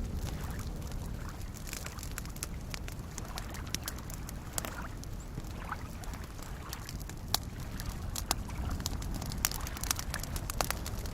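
Wood campfire crackling with scattered sharp pops, a few louder ones in the second half, over a steady low wash of small waves lapping at a lakeshore.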